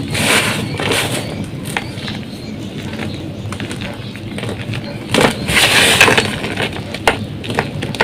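Blocks of gym chalk being crushed and crumbled, crunching and crackling with scattered sharp snaps. There are two louder bursts of crushing, one just after the start and one about five seconds in.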